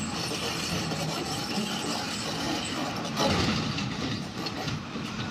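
A truck's engine running steadily, with a loud bang about three seconds in.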